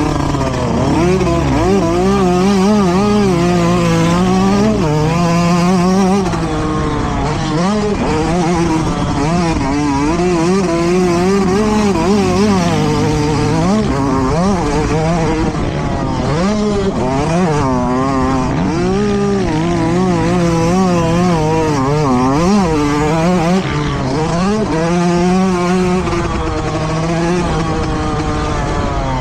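Motocross bike engine revving hard, its pitch climbing and dropping every second or two with the throttle and gear changes.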